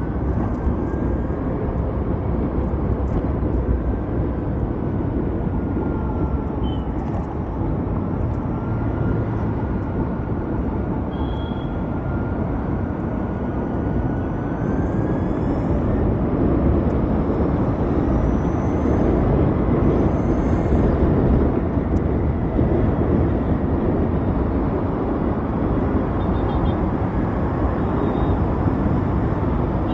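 Riding an Ather 450X electric scooter: steady wind rush and road noise on the microphone, with a faint whine that drifts up and down in pitch as the speed changes.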